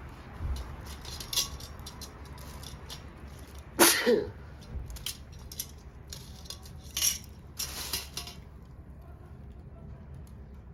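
Scattered clinks and knocks of hard objects being handled, with a sharp clatter about four seconds in and two more around seven and eight seconds, over a steady low background.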